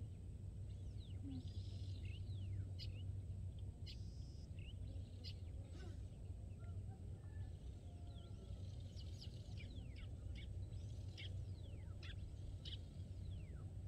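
Birds chirping outdoors, many short sweeping calls and quick notes, over a steady low hum.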